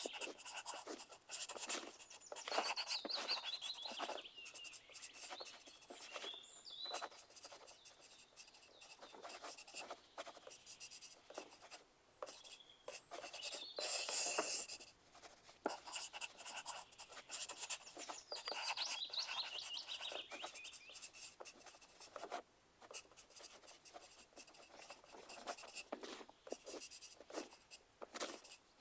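Pencils writing on paper: an irregular run of scratching strokes and light taps, now denser, now sparser.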